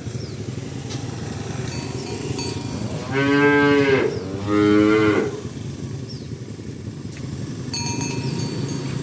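A cow mooing twice in quick succession, two long pitched calls about three and four and a half seconds in, over a steady low background rumble.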